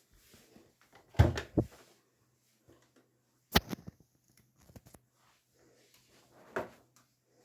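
Clunks and knocks from a Grundig washing machine being handled, as when its door or detergent drawer is opened or shut: two thuds about a second in, a sharp loud clack about three and a half seconds in, and another knock near the end.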